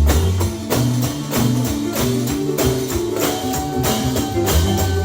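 Gospel band playing an instrumental stretch: a tambourine struck about three to four times a second over moving bass notes, with a long note held from about three seconds in.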